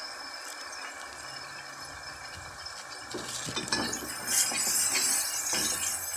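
Chili-and-tomato spice paste sizzling in hot oil in a wok while it is sautéed until fragrant. About three seconds in, a metal spoon starts stirring it, scraping and clinking against the wok.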